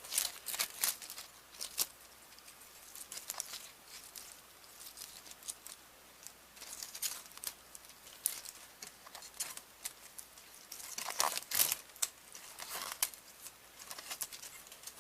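Plastic VHS cassette parts being handled and picked at by hand: irregular small clicks, taps and rustles, with a cluster of louder ones near the start and another about eleven seconds in.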